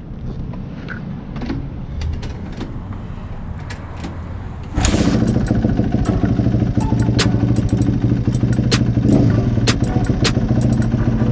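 Kawasaki KX250 dirt bike engine starting up about five seconds in, then running steadily at idle.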